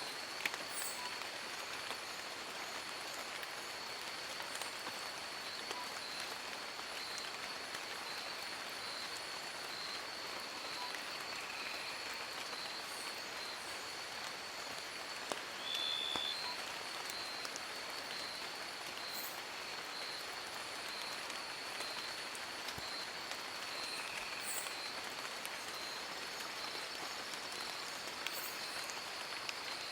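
Steady rain falling on forest leaves: an even hiss with scattered small drop ticks. A thin high tone runs behind it, and a short high chirp sounds about halfway through.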